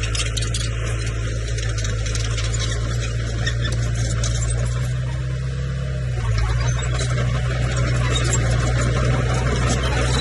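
Komatsu bulldozer's diesel engine running steadily, with a dense rattle over its low drone. About six seconds in, the engine note shifts and gets a little louder.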